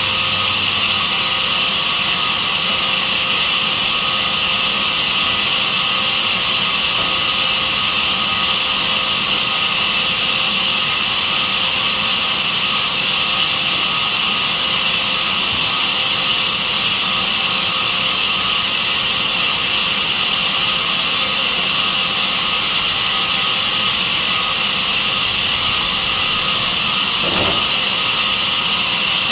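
Sawmill saw machine running steadily, a loud, even sound with no breaks or changes in pitch.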